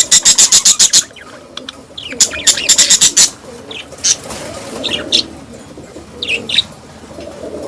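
Pet budgerigars calling: a rapid run of sharp, loud chattering pulses in the first second and again around two to three seconds in, with short chirps between.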